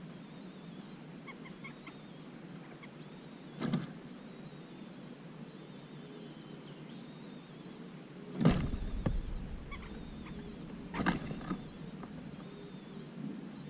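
Small birds chirping faintly, with short high calls repeating throughout. Three knocks or rustles break in, the loudest about eight and a half seconds in with a low rumble.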